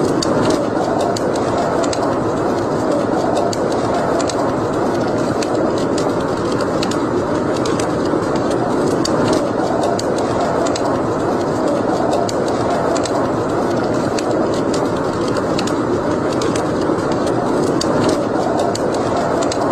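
Wood fire burning in a fireplace: a steady rushing sound with frequent sharp crackles and pops throughout.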